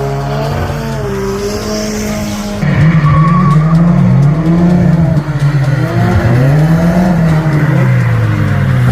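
Drift car engine revving hard, its pitch swinging up and down about once a second as the car slides; it gets suddenly louder a little under three seconds in.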